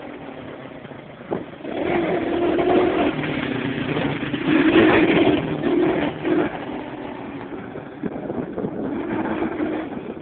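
A small motorcycle engine revving and running hard. It picks up about two seconds in and is loudest around the middle, then eases off and picks up again near the end.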